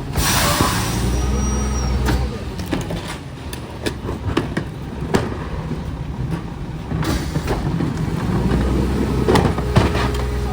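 Garbage truck running, with a sharp burst of air hiss at the start and scattered clanks and bangs throughout. The engine swells about a second in and again near the end.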